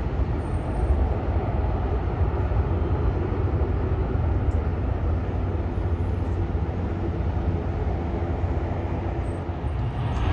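Jet airliner engines giving a steady low rumble, with no clear rise or fall.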